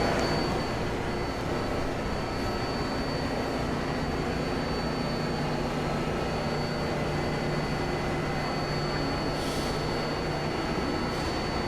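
New York City subway train standing at its terminal with doors open: a steady hum of its ventilation and onboard equipment with a thin high whine, and two short hisses near the end.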